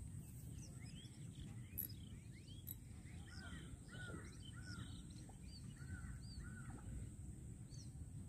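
Birds calling in the open: many short chirps repeated throughout, faint, over a steady low rumble of wind or outdoor noise.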